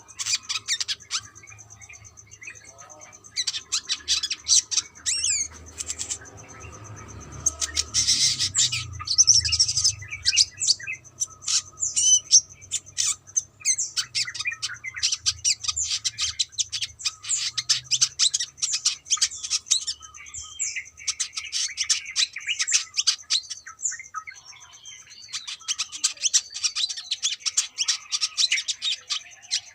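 Brown-throated sunbird singing: rapid runs of high, thin chirps and twitters in long bursts with brief pauses between them.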